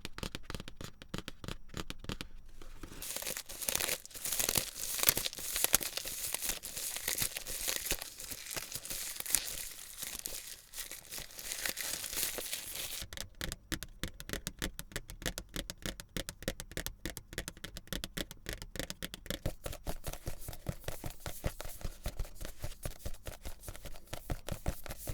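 Manga volumes handled close to the microphone: crinkling and tearing starts about three seconds in and lasts some ten seconds, then gives way to a long run of rapid light clicks and taps.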